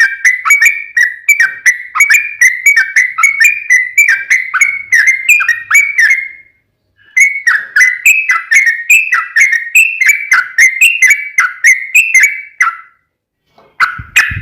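Sooty-headed bulbul (trucuk) singing a long run of quick, repeated whistled notes, about three or four a second. It breaks off briefly about six seconds in, then goes on until shortly before the end, when a few last notes come.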